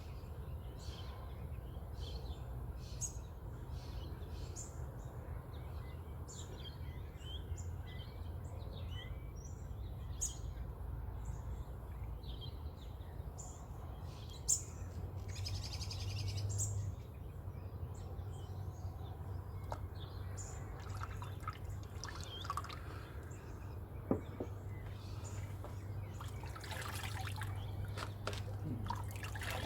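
Birds singing in a dawn chorus: many short chirps and calls throughout, over a steady low hum.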